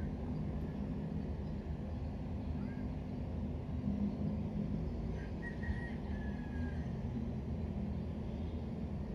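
Steady low background rumble, with a few faint, short high-pitched chirps about five to seven seconds in.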